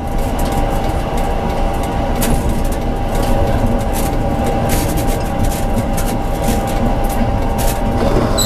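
Tram running along the track, heard from the driver's cab: a steady low rumble with a steady high tone and scattered sharp clicks.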